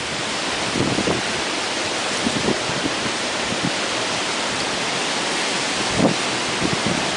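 Strong storm wind rushing and gusting across the microphone: a steady hiss with irregular low buffeting surges, the strongest about six seconds in.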